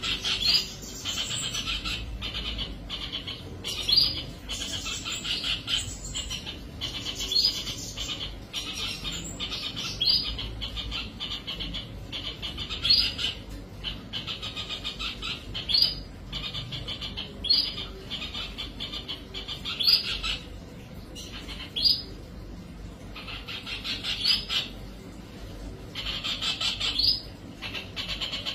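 A bird chirping in quick, rapid trills, with a louder call about every two seconds.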